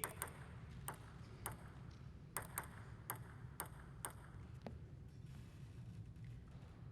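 A plastic table tennis ball clicking sharply against bats and the table, about ten hits spaced roughly half a second apart over the first five seconds, then stopping. A low, steady hall hum runs underneath.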